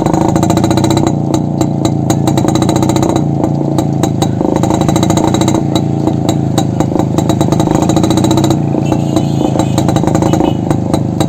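Yezdi two-stroke motorcycle engine running without its muffler, the open exhaust giving a loud, rapid train of even pulses.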